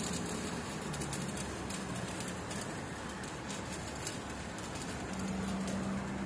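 Electric arc welding on a pipe: a steady crackling hiss from the arc. A low steady hum joins about five seconds in.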